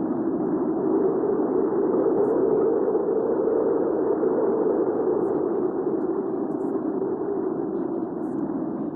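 Recorded hurricane wind ambience: a steady, low rushing noise with no gusts or breaks.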